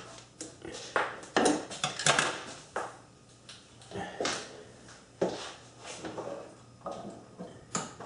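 Metal parts and tools being handled on a metal lathe: a string of about ten separate clinks and knocks, metal set down against metal.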